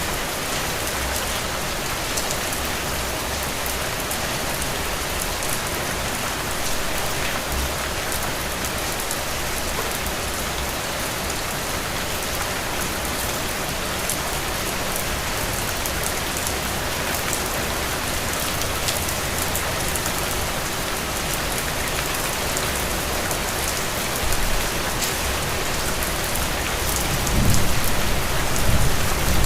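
Steady rain falling on a surface, a dense hiss with fine drop patters, with a low rumble swelling near the end.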